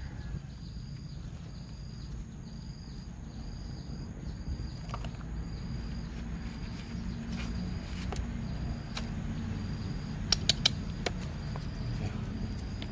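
Outdoor background with a steady low rumble and a faint high chirp repeating about twice a second, broken by a few clicks, with three sharp clicks close together near the end.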